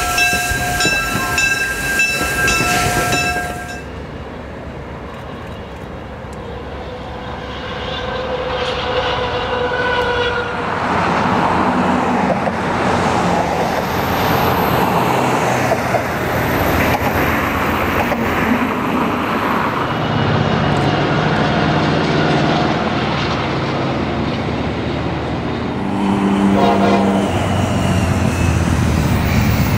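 A train horn sounds a steady chord that cuts off about three seconds in. A passing train follows, its wheels clattering over the rail joints, and it grows louder again near the end.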